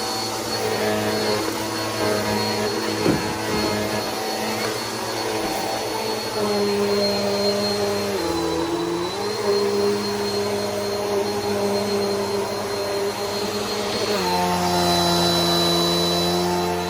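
Bissell PowerForce Helix upright vacuum cleaner running, its motor giving a steady hum with a high whine. The motor's pitch shifts a few times as it is worked: it dips briefly about eight seconds in, then drops lower and gets louder near the end.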